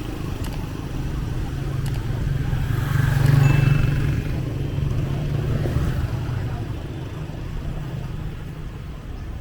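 Small motorbike engine running past close by, its hum growing louder to a peak a few seconds in and then fading away, over general street noise.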